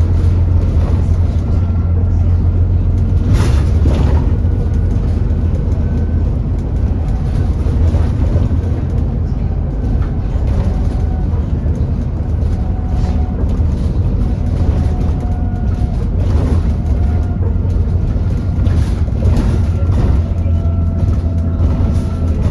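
Alexander Dennis Enviro400 double-decker bus heard on board while under way: a steady deep engine rumble, with a faint whine that comes and goes and shifts in pitch. Scattered rattles and knocks, the loudest about three and a half seconds in.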